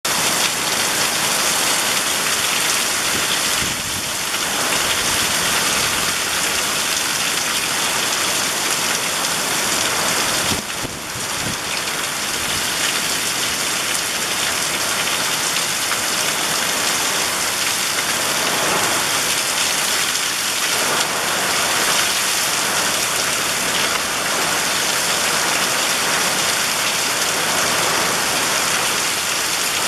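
Heavy rain falling steadily through woodland, a dense even hiss that dips briefly about ten seconds in.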